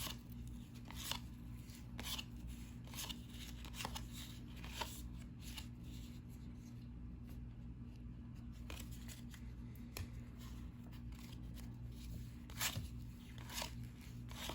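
1990-91 NBA Hoops trading cards being slid and flipped one at a time in the hands, short papery flicks at irregular intervals, fewer in the middle, over a steady low hum.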